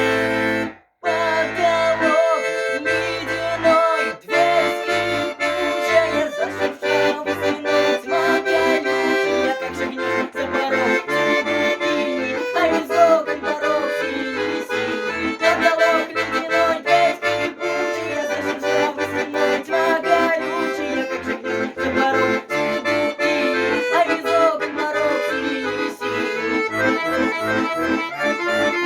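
Accordion playing an instrumental interlude: a melody over a steady alternating bass-and-chord accompaniment. The sound cuts out briefly about a second in.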